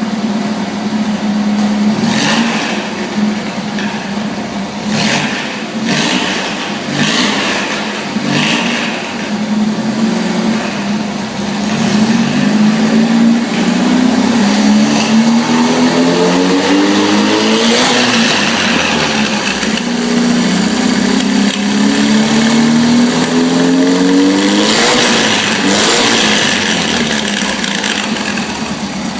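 Classic VW Beetle air-cooled flat-four running through an unmuffled 4-into-1 straight exhaust. It holds a steady note with several sharp cracks, then revs up in long rising pulls, its pitch dropping back sharply twice before climbing again.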